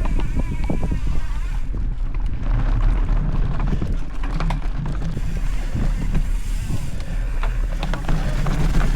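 Mountain bike riding a dirt trail: wind rushing over the microphone with a steady low rumble from the tyres, broken by frequent short knocks and rattles from the bike.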